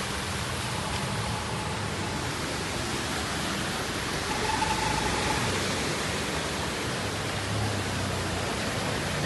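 Steady, even rushing noise of water from the flooding, heavy rain or floodwater on the move, with a faint low hum underneath at times.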